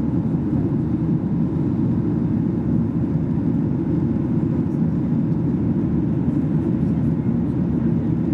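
Steady low cabin noise inside a Boeing 737-800 in flight: air rushing past the fuselage and the CFM56-7B jet engines, heard from a window seat.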